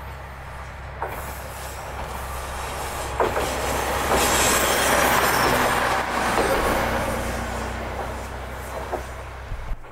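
Yellow diesel railcar passing close by: a low engine drone and the clicks of its wheels over rail joints. It grows to its loudest about four to five seconds in, then fades as it moves away.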